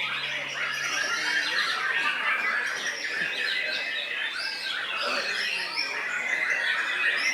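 White-rumped shamas (murai batu) singing, a dense run of overlapping whistles and chirps.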